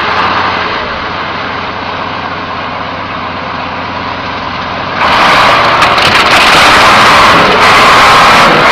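Heavy vehicle engine running steadily. About five seconds in, the sound switches abruptly to a louder recording.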